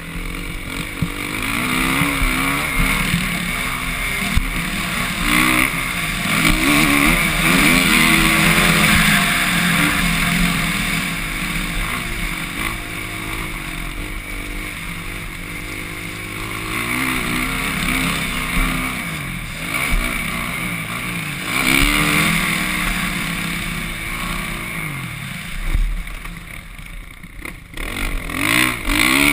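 Suzuki RM-Z450 motocross bike's single-cylinder four-stroke engine revving up and falling back again and again as the rider works the throttle around the track, with wind rushing over the microphone. The engine drops off briefly near the end before picking up again.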